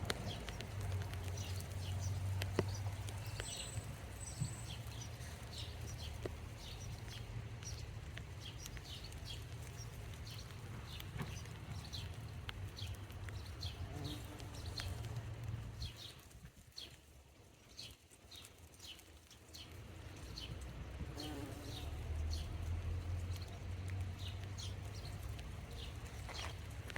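Low buzzing hum of bumblebees at flowers, which drops away for a few seconds past the middle and then returns. Small birds chirp high above it throughout.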